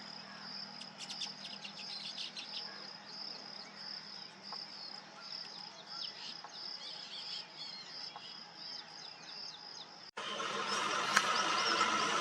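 An insect, likely a cricket, chirps in a steady high pulsed trill, about two or three pulses a second, with short, sharp bird chirps over it. About ten seconds in, it cuts off abruptly to a louder, noisier sound.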